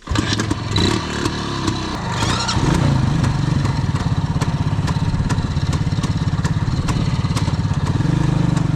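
Motorcycle engine running while riding, a fast, even beat that grows a little louder about three seconds in.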